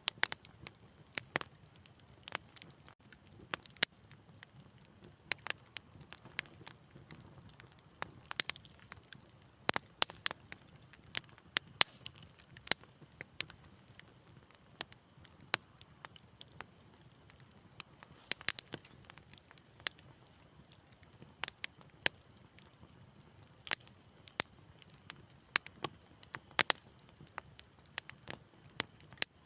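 Wood fire crackling: irregular sharp pops and snaps, several a second, over a soft low hiss of burning.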